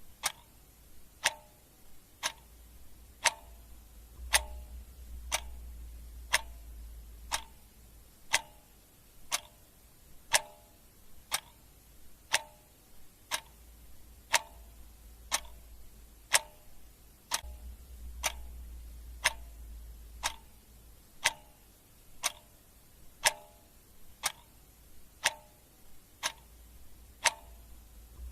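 Clock ticking steadily about once a second, sharp clicks alternating a louder tick with a softer tock.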